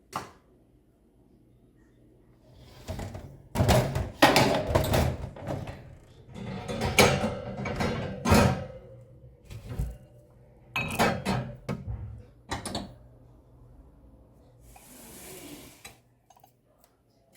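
Household handling sounds: irregular knocks, clatter and rubbing, loudest in the middle, with a short soft hiss near the end.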